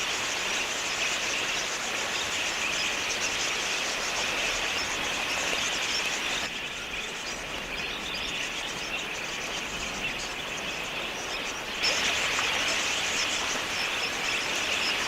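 A large flock of budgerigars chattering: dense, continuous high twittering of many birds at once. It drops abruptly quieter about six seconds in and jumps louder again near twelve seconds.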